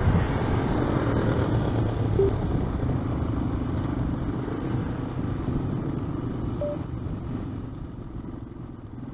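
Yamaha XT225 dual-sport motorcycle's single-cylinder engine running steadily while riding, gradually getting quieter.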